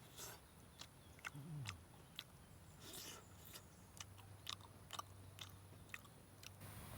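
Close-up sounds of a person chewing and eating, with irregular soft crunches and mouth clicks.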